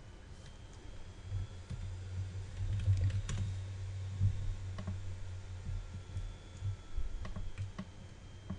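Scattered computer keyboard and mouse clicks, over a low hum that comes in about a second in and stops near the end.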